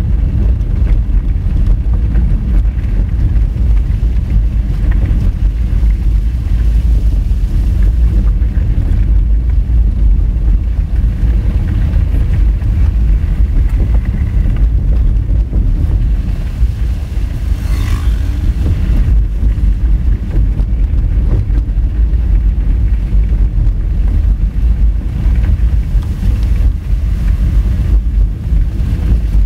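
Honda Fit driving on a rough gravel road: a steady, loud low rumble of tyres on gravel, engine and wind buffeting the microphone. A brief, sharper noise comes about two-thirds of the way through.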